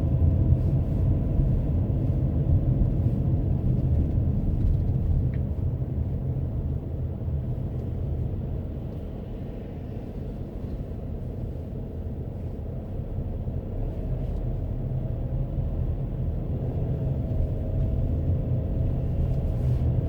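A car driving, heard from inside: a steady low road and engine rumble that eases off around the middle and builds again toward the end.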